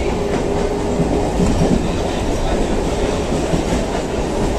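Chennai suburban electric local train running at speed, heard from inside the carriage at an open doorway: a loud, steady rumble of wheels on the rails with scattered clicks. A steady hum fades out about a second in.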